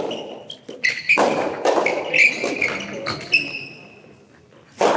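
Soft tennis rally on an indoor court: a series of sharp ball hits and bounces echoing in the hall, with short high squeaks between them, fading out over the last second or so.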